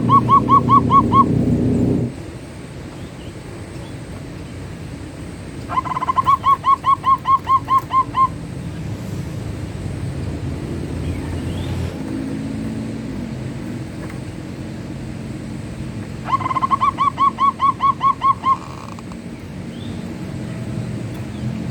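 Zebra dove (perkutut) cooing in its staccato song: a quick run of about ten clipped, evenly spaced coos, repeated roughly every ten seconds. A phrase is ending at the start, then two full phrases follow. A steady low rumble runs underneath.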